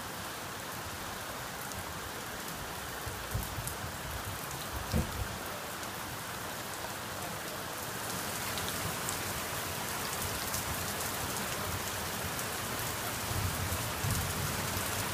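Heavy rain pouring steadily onto a roof and pavement: a dense, even hiss with a few sharper close splats and a dull thump about five seconds in. The rain grows a little louder about halfway through.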